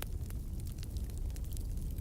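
Wood fire burning in a fireplace: a low rumble of flames with frequent sharp crackles and pops from the burning logs, one louder pop at the very start.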